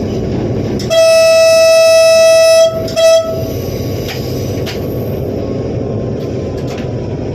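Train horn sounding one long blast of about two seconds, then a short second blast, over the steady rumble of the running train; a few light clicks follow.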